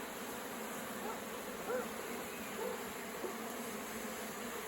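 Steady hum of many honeybees around an open hive, with single bees buzzing past close by now and then, their pitch briefly sliding up and down.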